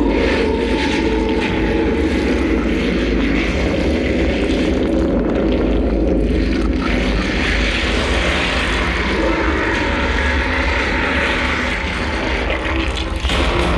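Loud, steady droning rumble from the fireworks show's soundtrack, dipping slightly near the end.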